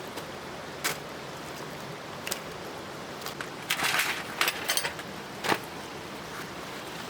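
Objects being handled: scattered sharp clicks and knocks, with a burst of rustling and clattering about four seconds in, over a steady outdoor hiss.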